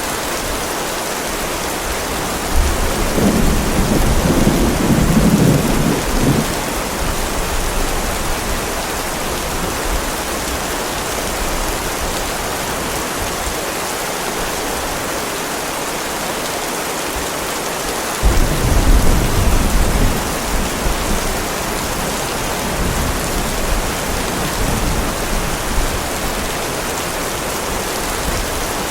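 Steady heavy rain, with thunder rumbling loudly twice: about three seconds in for several seconds, and again past the middle, followed by lighter low rumbles.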